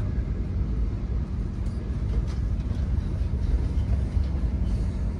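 Steady low rumble of a Great Western Railway 'Castle' HST running along the line, heard from inside one of its Mk3 coaches, with a steady hum under it.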